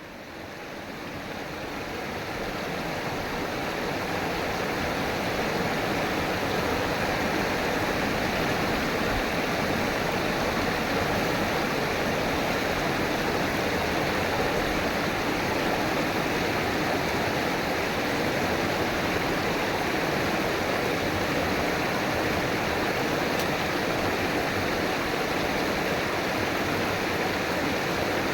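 River water flowing in a steady, even wash, fading in over the first few seconds and then holding level.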